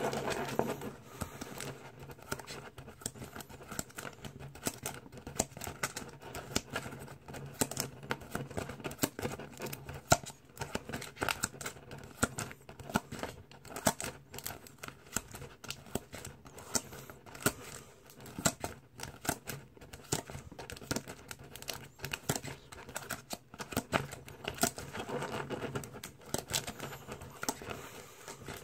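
Cards and their packaging being handled at close range: many irregular clicks, rustles, crinkling and tearing of wrappers, with sharp snips of scissors cutting.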